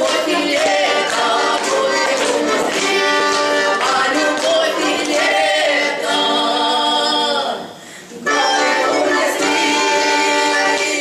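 Two women singing a Russian folk-style song in duet to bayan (button accordion) accompaniment. A long held note breaks off about seven and a half seconds in, and after a short gap the singing and accordion come back in.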